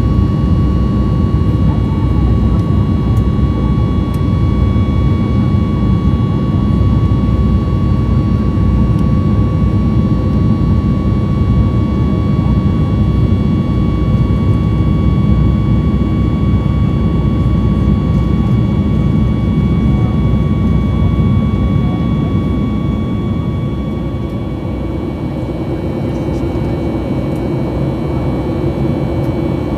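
Cabin noise inside a Boeing 737 MAX 8 climbing after takeoff: the steady run of its CFM LEAP-1B engines and rushing air, with several steady whines over it. A high whine stops about two-thirds of the way through, and the level dips a little for a few seconds before coming back.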